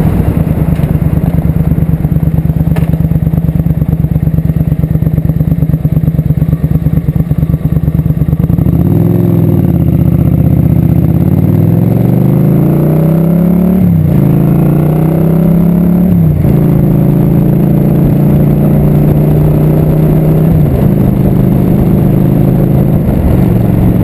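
Motorcycle engine running steadily at low revs, then pulling away: its pitch climbs, drops sharply at an upshift, climbs again, drops at a second shift, and settles into a steady cruise.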